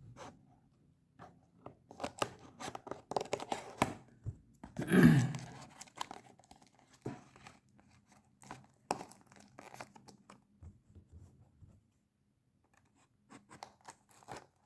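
Scissors cutting and tearing open tough packaging, with irregular snips and crackles. A longer, louder tear comes about five seconds in, and the cuts grow sparser and fainter towards the end.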